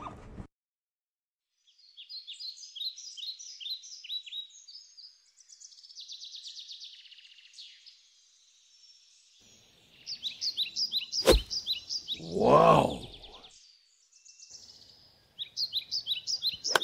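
Small birds chirping in quick repeated short high notes, on and off. About eleven seconds in there is a single sharp crack, followed by a brief pitched swell of sound lasting about a second.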